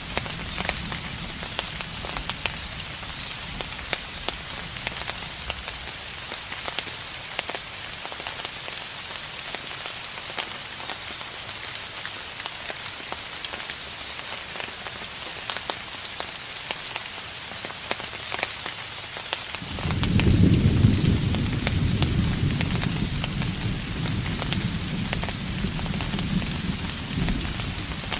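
Steady rain falling, with individual drops pattering. About two-thirds of the way through, a distant thunder rumble rolls in suddenly and lingers to the end.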